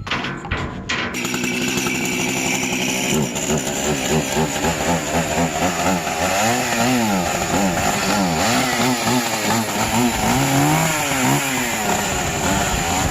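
Gas chainsaw running, coming in about a second in. The engine pitch rises and falls repeatedly as it is revved and bogs into a cut.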